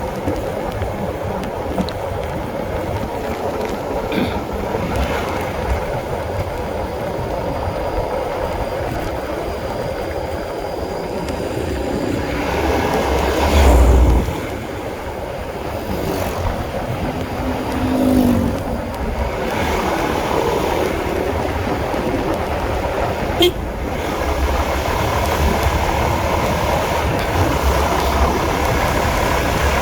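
Honda CB150R's single-cylinder engine running while riding, mixed with steady wind rush on the microphone, which surges loudly for a moment about halfway through.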